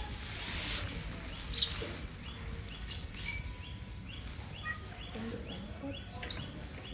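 A small bird chirping over and over, short high chirps a few times a second. Rustling noise during the first two seconds or so.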